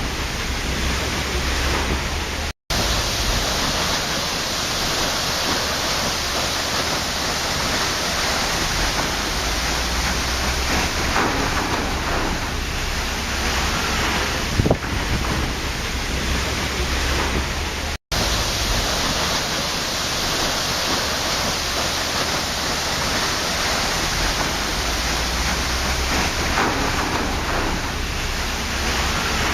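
Waterfall: a steady, dense rush of falling water, cut by two very brief drops to silence, about two and a half seconds in and about eighteen seconds in.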